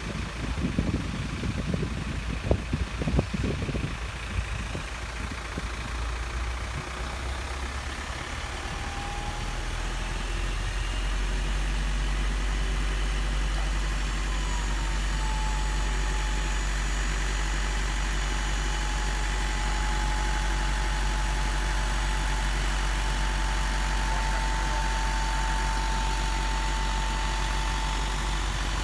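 2000 Isuzu NPR dump truck's engine idling, with a few knocks in the first seconds. About ten seconds in it steps up into a louder, steady drone with a thin whine above it as the hydraulic hoist is engaged to raise the dump bed.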